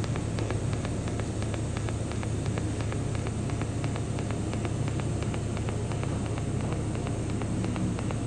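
Hitbox TIG welder's arc running steadily during a weld with filler wire laid in: a continuous hiss over a low hum, with a fast, even ticking.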